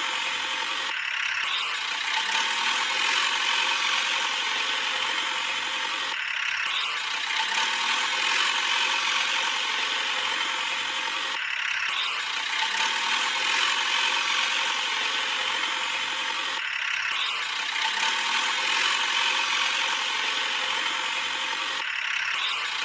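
Steady mechanical ratcheting whir that repeats in a cycle about every five seconds, with a brief break between repeats.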